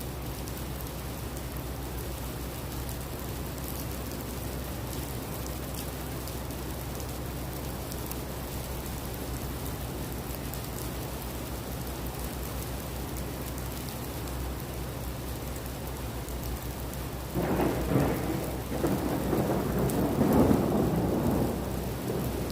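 Heavy rain falling steadily with scattered drop hits, over a steady low hum. About seventeen seconds in, a loud roll of thunder breaks out and rumbles for about four seconds before easing.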